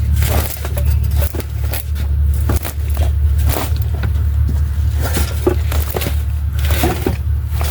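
Repeated metal knocks and scrapes as a transmission is shoved and worked against the engine, blocked from sliding forward by the catalytic converter, over a steady low hum.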